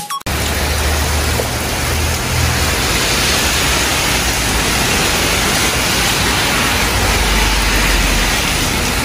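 Torrential rain pouring down hard and steadily on a street. A low rumble of cars driving through the water runs underneath, heavier at times.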